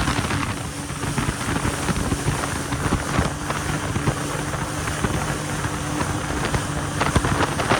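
Jet ski running at speed: a steady engine hum under wind rushing over the microphone, with irregular slaps of the hull on the water.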